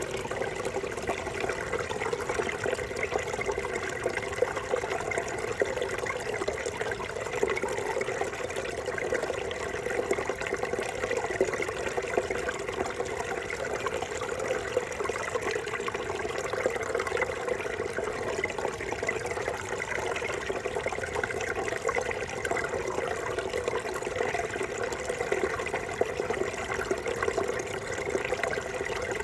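A brook babbling and trickling over stones, a steady, unbroken rush of water.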